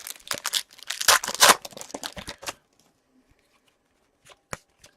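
A card pack's wrapper being torn open and crinkled, a busy run of tearing and crinkling for about two and a half seconds, then a couple of sharp clicks near the end.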